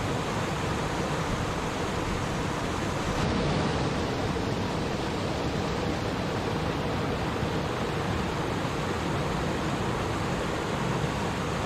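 Water running in a stream, a steady, unbroken rushing and babbling.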